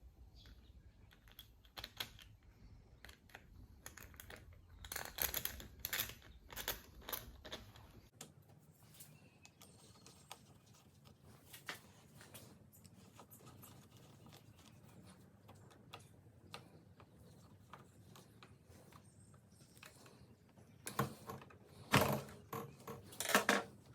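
Light clicks and taps of small plastic and metal parts being handled and fitted: a hedge trimmer's carburettor and fuel lines going back on. They come in bunches about five seconds in and again near the end.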